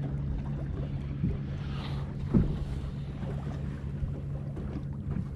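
A steady low hum on board a small fishing boat, with wind on the microphone. A single sharp knock sounds about two and a half seconds in.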